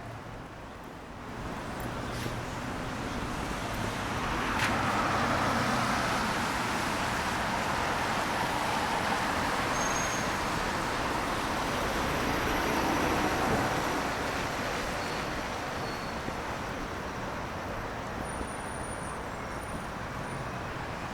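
Road traffic passing along a wet street: a rushing tyre hiss that swells about four seconds in, holds for around ten seconds, then slowly fades.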